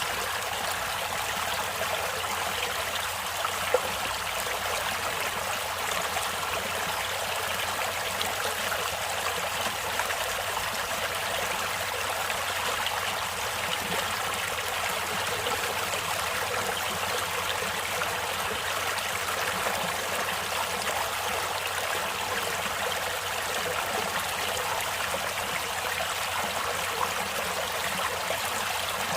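Stream water flowing and trickling steadily, with one brief click about four seconds in.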